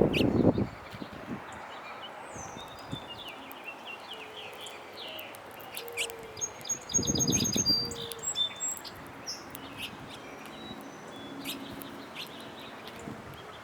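Wild birds chirping and calling at a backyard feeder, short high chirps scattered throughout with a quick run of repeated chirps about halfway. Two louder low noisy bursts come, one at the very start and one about halfway.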